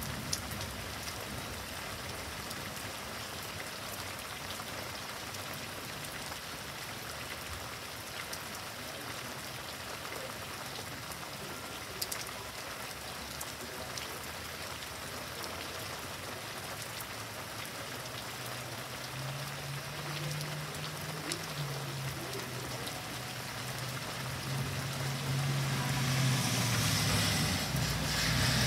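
Steady rain falling during a thunderstorm, with a few sharp ticks of drops. In the last few seconds a vehicle comes along the wet road, a low engine hum and rising tyre hiss on wet pavement.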